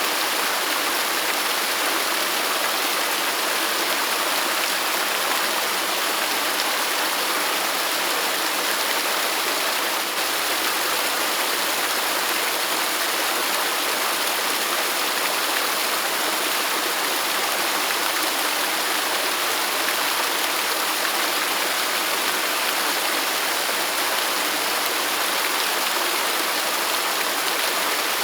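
Waterfall: water pouring and splashing in a steady, unbroken rush, mostly hiss with little deep rumble.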